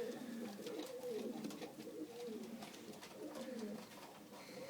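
Fantail pigeons cooing: a run of low, arching coos repeated one after another.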